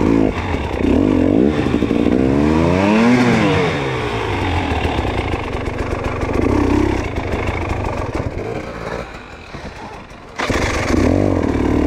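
Dirt bike engine revving up and falling back again and again as the throttle is worked in short bursts. The engine sound dips about ten seconds in, then comes back loud.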